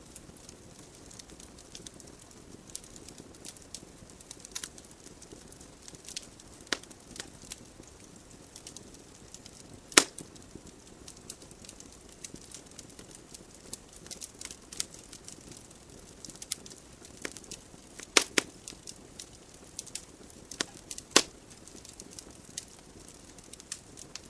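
Burning wood logs crackling in a fireplace: irregular sharp pops and snaps over a soft steady hiss of flame, with a loud pop about ten seconds in and a cluster of loud pops later on.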